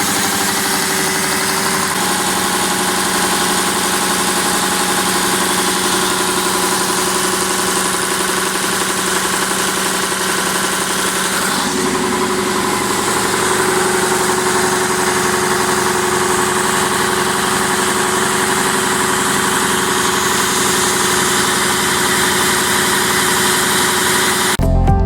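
Freshly overhauled YaMZ-238BL-1 V8 diesel engine running steadily, its speed stepping up slightly about halfway through. Music comes in right at the end.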